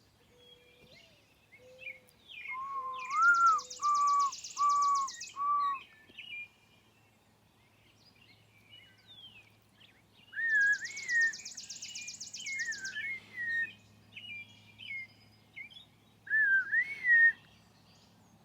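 Wild birds singing: loud slurred whistled notes repeated four or five times, each bout led by a rapid high trill. The song comes in two bursts, about three seconds in and again about ten seconds in, with shorter whistled phrases near the end.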